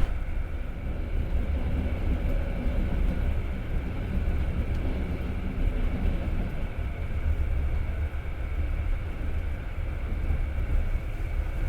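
Passenger train car running along the track, heard from inside: a steady low rumble of wheels on rail with a faint steady whine above it.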